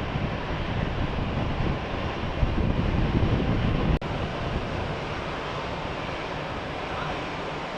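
Rushing, rumbling noise of jet aircraft engines mixed with wind buffeting the microphone. A sudden break comes about four seconds in, after which the noise is steadier and a little quieter.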